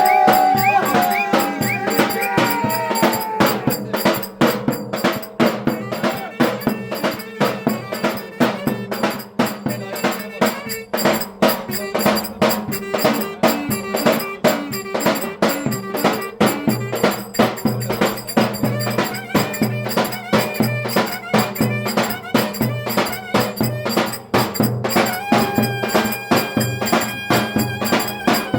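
Turkish folk dance music (oyun havası) with a fast, steady drum beat. A melody instrument plays over it in the first few seconds and again near the end.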